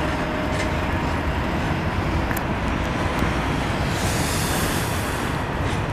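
Canadian Pacific intermodal freight train's container cars rolling past on the rails: a steady noise of wheels on track.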